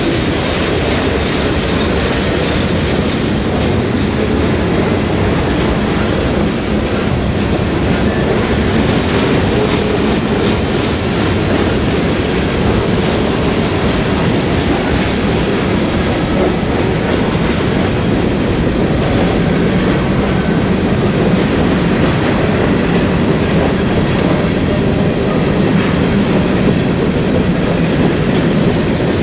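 Freight train cars rolling steadily past on the rails, a continuous dense rumble and rattle of wheels and cars.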